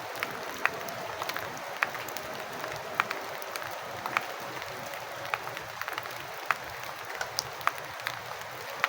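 Rain falling with a steady hiss, with separate large drops landing at irregular intervals as sharp taps, about one or two a second.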